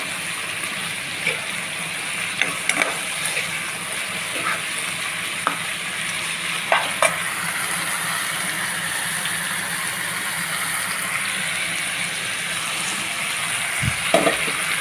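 Curry sizzling in a frying pan as it is stirred with a spatula, with a steady hiss and scattered clicks and scrapes of the spatula against the pan.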